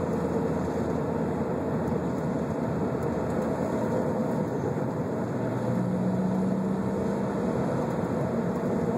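1997 Honda Prelude's H22 four-cylinder engine running at a fairly steady pitch while the car is under way, with road noise.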